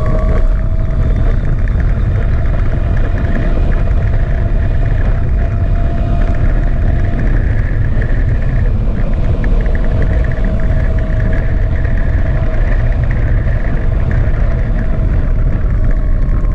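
Gogoro 2 electric scooter riding, with a loud, steady low rumble and a thin, steady electric-motor whine over it.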